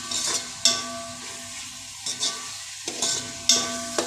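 Onions and ginger-garlic paste frying in oil with a steady sizzle, stirred with a slotted metal spatula in an aluminium pot. The spatula knocks against the pot several times, and each knock sets the pot ringing briefly.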